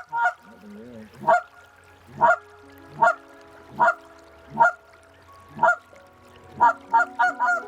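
Goose call blown close by in a series of honks: a quick run of clucks, then single honks about a second apart, then another quick run near the end, calling to circling geese.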